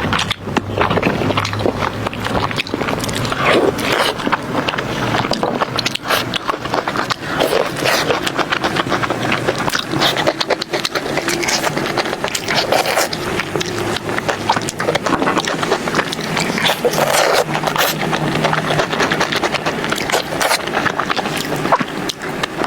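Eating sounds: continuous scraping and many small clicks of food being handled and chewed.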